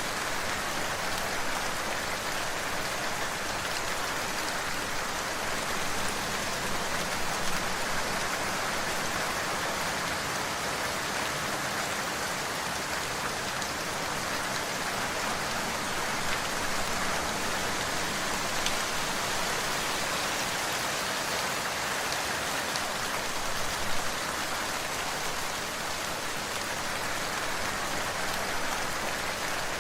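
Steady rain falling, an even hiss of drops on a surface with a few slightly louder drop taps here and there.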